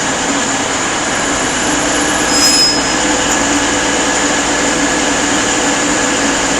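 Class 222 Meridian diesel-electric multiple unit running through the station, a steady loud mix of underfloor diesel engine and wheel noise, with a short high squeal about two and a half seconds in.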